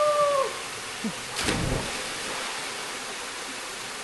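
A man's held shout ends about half a second in, then a splash about one and a half seconds in as he drops from a rope swing into a waterfall pool. The steady rush of the waterfall runs underneath.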